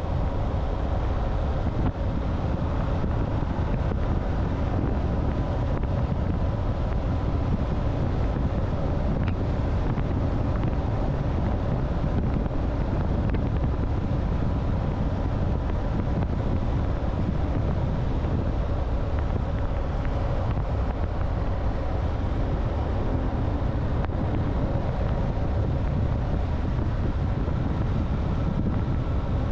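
Motorcycle riding along at a steady pace: constant low wind rumble on the microphone over the engine's steady running, with no change in speed.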